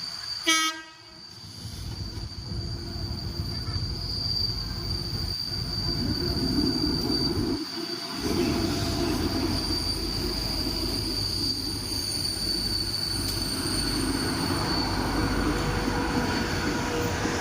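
A train sounds one short horn blast about half a second in, then passes over the level crossing with a steady rumble of wheels on rail.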